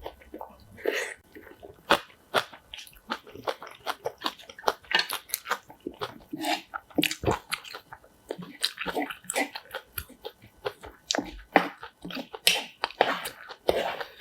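A person chewing and crunching kimchi close to the microphone: many quick, crisp, irregular crunches.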